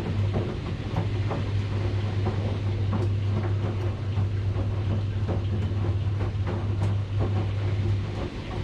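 Washing machine running: a steady low hum with irregular light knocks and clicks throughout.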